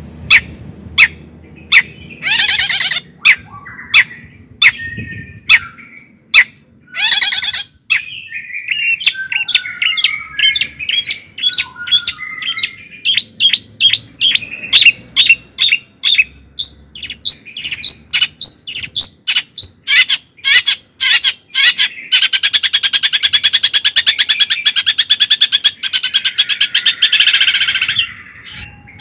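A bird calling with a long series of sharp chips that come faster as they go on. About 22 seconds in, the chips turn into a fast rattling trill that lasts some six seconds.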